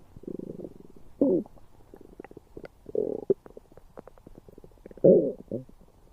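Stomach gurgling and rumbling in irregular bursts, some with a squeaky gliding pitch, the loudest about a second in, around three seconds in and about five seconds in, with small pops and bubbling clicks in between.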